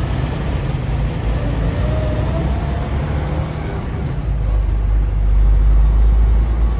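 Semi-truck under way: a steady deep engine and road rumble that grows louder in the second half.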